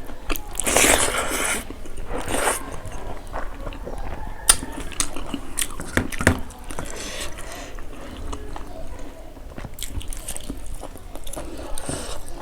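A person eating close to the microphone: chewing and biting into fried pork and rice, with a louder noisy burst about a second in and scattered sharp clicks.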